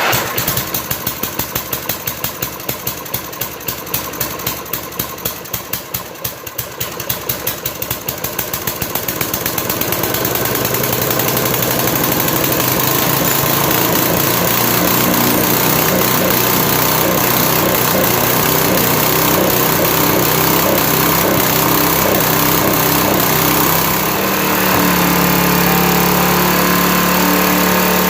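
1977 MTD 8-34 lawn tractor's single-cylinder engine, just started, running unevenly with a pulsing beat at first, then smoothing into a steady run over about ten seconds; its note shifts about 24 seconds in.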